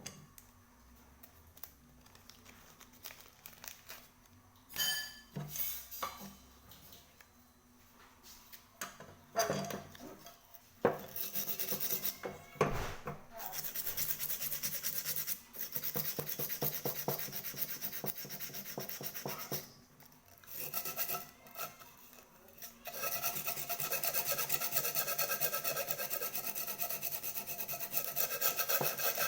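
A few scattered knocks and clatter, then from about eleven seconds in fast, steady back-and-forth rubbing strokes like hand filing or sanding on metal, running almost without a break apart from a few short pauses, as the damaged small cauldron is worked on.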